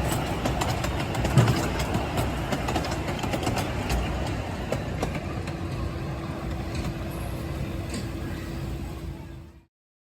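Small amusement-park ride train rolling along its track: a steady rumble with frequent short wheel clicks. A steady hum-like tone comes in about halfway through, and the sound fades and cuts off just before the end.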